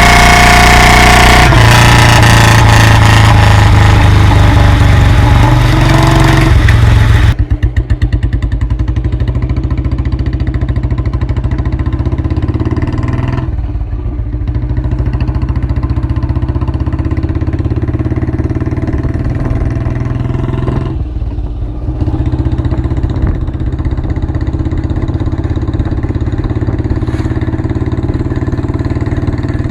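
1990 Royal Enfield Bullet 350's single-cylinder four-stroke engine revving hard, then dropping back about seven seconds in to a steady idle. The idle falls away briefly twice.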